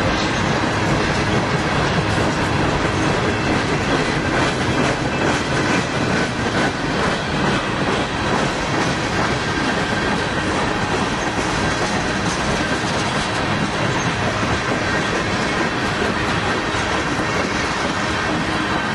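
Freight train of tank cars rolling past: steady wheel-on-rail noise with a clickety-clack over the rail joints and a thin, steady high wheel squeal.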